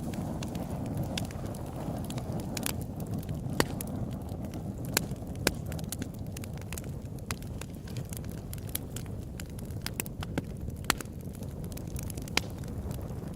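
Open-air campfire burning, a steady low rumble of flames with irregular sharp crackles and occasional louder pops of the burning wood.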